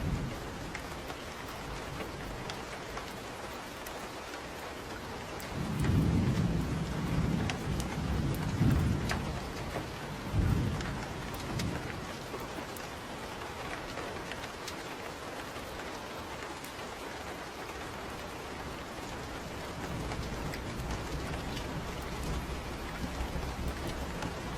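Steady rain falling, with a low rumble of thunder rising about six seconds in and lasting some three seconds, a shorter rumble about ten seconds in, and fainter rumbling again near the end.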